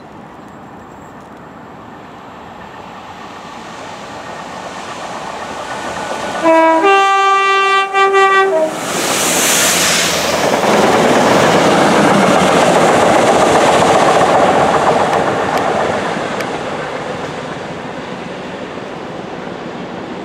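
Railhead treatment train hauled by a Class 66 diesel locomotive approaching and passing. About six and a half seconds in, the locomotive's two-tone horn sounds: a short lower note, then a longer higher one. Then the loud rumble and clatter of the locomotive and tank wagons going by, fading away near the end.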